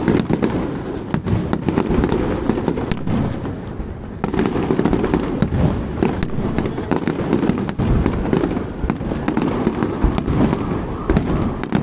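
Fireworks display: a dense, continuous barrage of bangs and crackling, growing louder about four seconds in.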